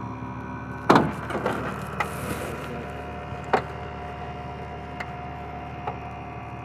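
A steady engine drone runs throughout. A loud knock with a ringing tail comes about a second in, then a few lighter knocks follow, as rescue gear such as cribbing and spreaders is handled.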